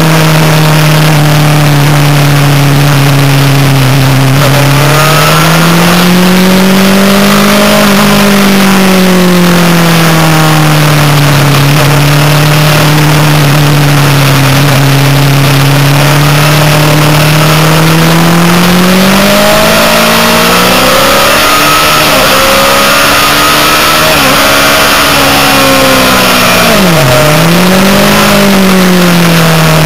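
Honda CBR 600 RR's inline-four engine running hard at track speed, its pitch rising and falling slowly with throttle and gears, with a sharp drop and quick recovery in pitch near the end. Heavy wind rush runs under it.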